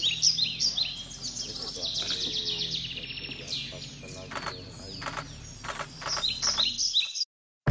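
Several birds calling and chirping in quick succession, many short high notes falling in pitch, over a low steady hum. The sound drops out to silence just before the end.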